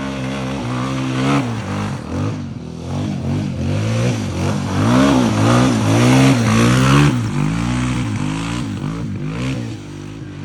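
An engine revving up and down in a series of quick blips, loudest in the middle, then easing back.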